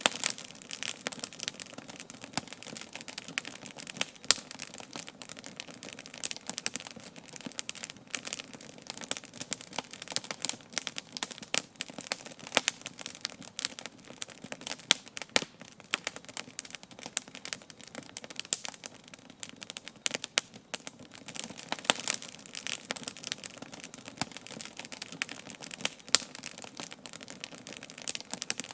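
Wood campfire burning with a dense, steady crackle, with louder pops every few seconds.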